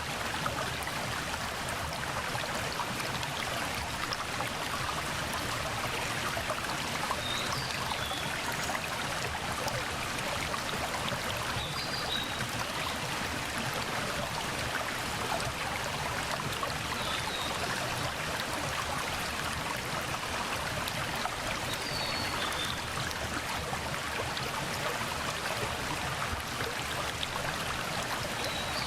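Mountain stream flowing steadily over rocks, a continuous rushing and trickling of water. A bird gives a short high call about every five seconds above it.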